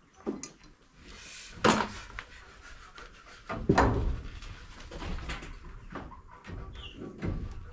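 A few irregular knocks and clattering bumps, the two loudest about a second and a half apart, with rustling and handling noise between them.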